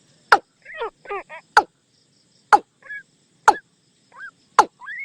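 Watercock decoy call: sharp, loud knocking notes about once a second, with short bubbling and rising notes in between.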